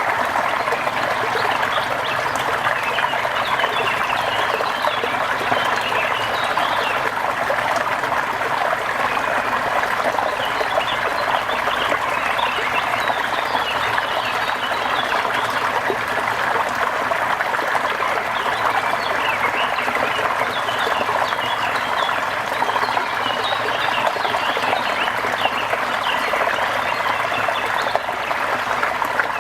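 Steady rain with water trickling, an even wash of sound with many small quick drips and splashes throughout.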